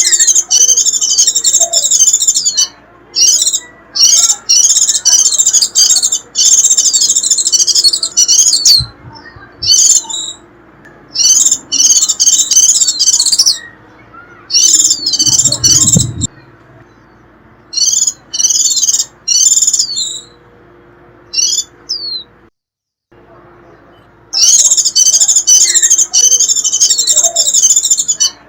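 White-eye giving its shrill, chattering 'rít' calls in rapid high-pitched phrases of one to three seconds, separated by short pauses. The sound cuts out completely for about a second a little after two-thirds of the way through.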